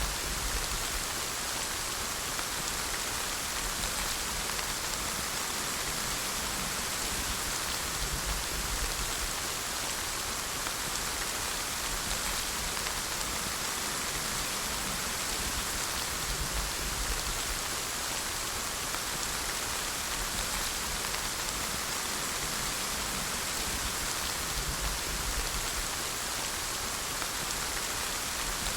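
Steady rain falling on a surface, an even hiss of many drops with no let-up, and a faint low rumble swelling now and then underneath.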